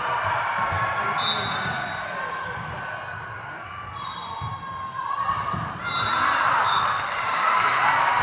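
Gym sound during a volleyball match: a ball thudding on hands and floor amid a hubbub of players' and spectators' voices, which grows louder about six seconds in.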